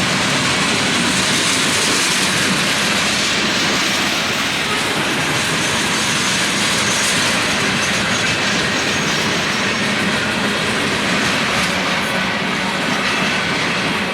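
Freight train cars rolling steadily past, a continuous noise of steel wheels on the rails.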